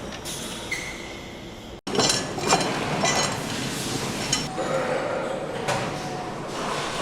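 Engine-assembly shop sounds: metal parts and hand tools clinking and knocking irregularly, with a short high beep-like tone about a second in. The sound breaks off for an instant just before two seconds in, then comes back louder and busier with denser clinks.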